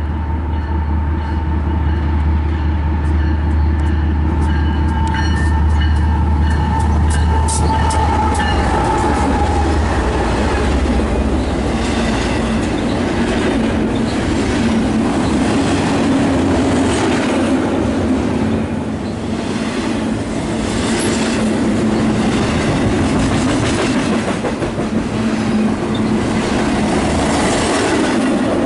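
A diesel-hauled train passing close by. A deep locomotive engine hum fills the first ten seconds, then the cars follow with wheels clicking over the rail joints and some wheel squeal.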